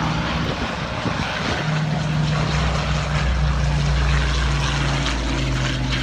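Propeller aircraft piston engines running steadily. The engine note bends and drops about a second and a half in, then holds.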